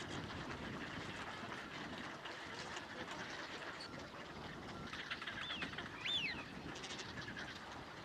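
Waterbirds at a pond: a few short, high calls that rise and fall, bunched about five to six and a half seconds in, the loudest about six seconds in, over a steady background noise.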